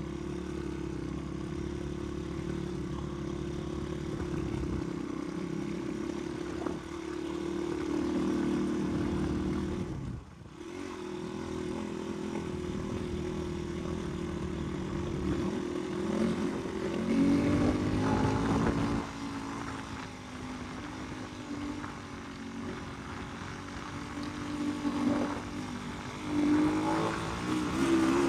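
Dirt bike engine running under load on a steep uphill climb, revving up in surges with a brief drop about ten seconds in.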